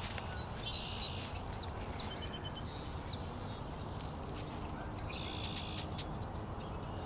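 Small birds calling: a dense buzzy trill about a second in, a short run of chips, and another trill near the end, over a steady low rumble.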